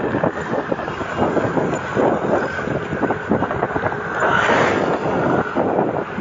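Wind buffeting the microphone of a cyclist riding along, a loud, gusting rush of noise.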